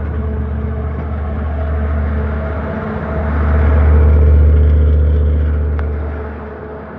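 Standby generator's engine running steadily during a power outage, a loud low hum with fixed tones above it, swelling louder for a couple of seconds in the middle.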